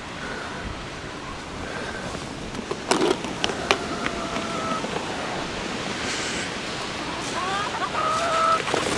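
Strong wind rushing over the microphone in a steady hiss, with a few sharp knocks about three seconds in and short high-pitched calls in the middle and near the end.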